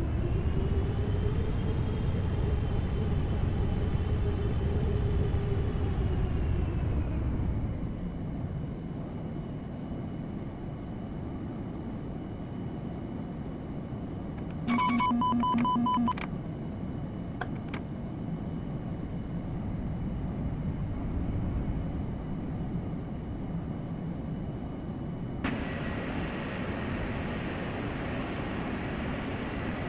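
Steady jet airliner noise of a Boeing 787-10 in flight, with a faint slowly rising and falling whine early on. A short electronic tone sounds about halfway through, and the sound changes abruptly near the end.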